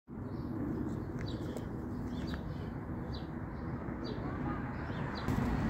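A small bird calling in short, high, falling chirps, about one a second, over a steady low outdoor rumble that grows louder near the end.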